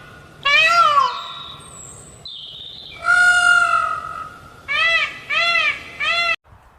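A cat meowing five times: one meow about half a second in, a longer drawn-out one around the middle, then three short meows in quick succession near the end. Faint high chirps sound between the meows.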